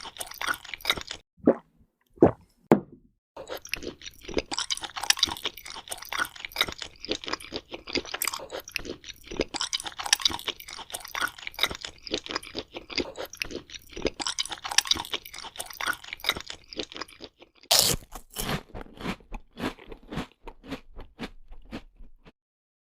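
A person crunching and chewing fresh fruit close to the microphone: dense runs of crisp crunches broken by short pauses. A loud bite about 18 seconds in is followed by slower, sparser chewing.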